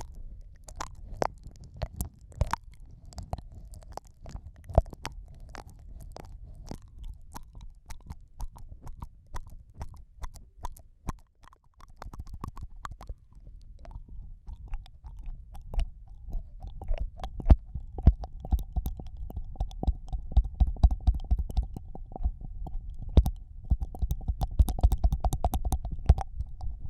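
Close-up ASMR 'ear eating' mouth sounds: wet lip smacks and tongue clicks pressed against the microphone over a low, muffled rumble. The sounds grow denser and louder in the second half.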